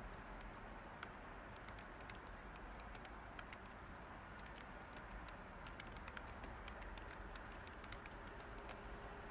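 Light typing on a computer keyboard: soft, irregular keystrokes, a few a second, over a steady white-noise hiss.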